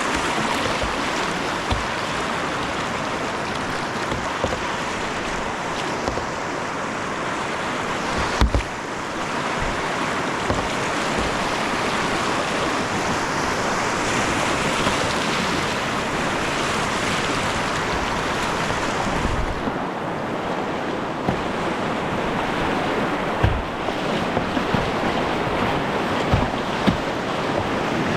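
Snoqualmie River water rushing steadily around a kayak, heard close up on the kayak's camera, with occasional low thumps of wind or bumps on the microphone.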